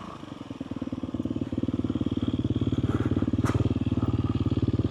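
Dirt bike engine running at a steady pitch, growing louder over the first couple of seconds and then holding, with a single sharp click about three and a half seconds in.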